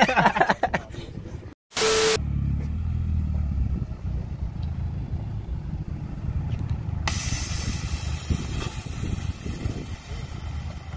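Car engine running low and steady after a sudden cut, with a steady hiss joining about seven seconds in.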